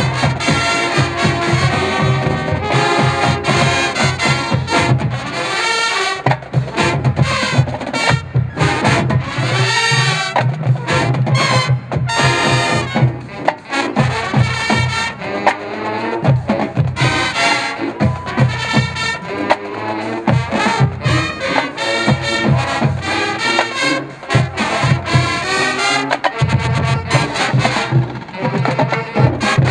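Marching band playing a brass-led funk chart at full volume: horns over a steady drum-line beat.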